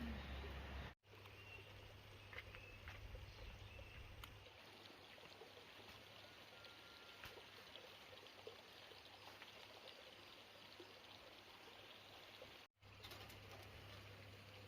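Near silence: faint outdoor ambience with a few faint, short bird calls.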